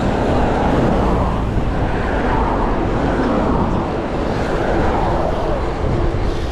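Steady rush of wind on the microphone and road noise while riding a bicycle at speed, loud and unbroken, gently swelling and easing.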